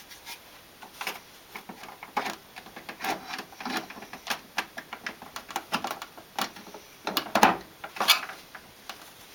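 Irregular small clicks and taps of parts being handled and fitted: the sliding, press-fit cap going onto a model ship's smoke funnel. The loudest knocks come about seven and eight seconds in.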